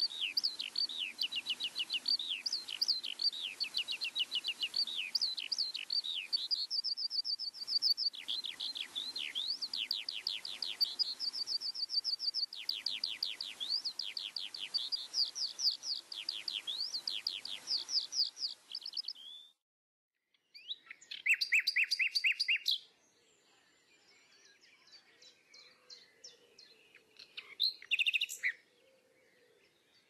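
Songbirds chirping: a dense run of rapid, downward-sweeping chirps that stops abruptly about two-thirds of the way through, followed by two short, loud bursts of chirping with fainter calls between them.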